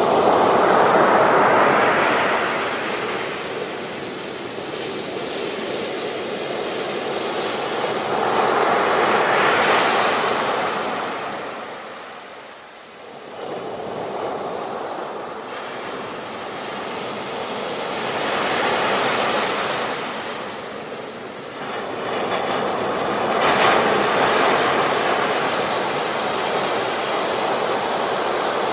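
Ocean waves breaking and washing up on a beach, the surf swelling and ebbing in waves about every eight to ten seconds, with a brief lull about twelve seconds in.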